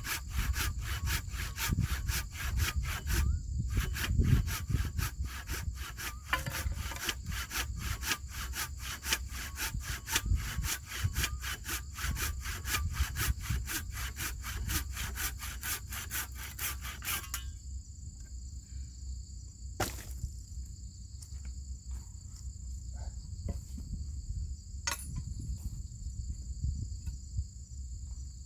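Hand saw cutting through wood in fast, even back-and-forth strokes, stopping abruptly about two-thirds of the way through. Insects then drone steadily, with a couple of sharp clicks.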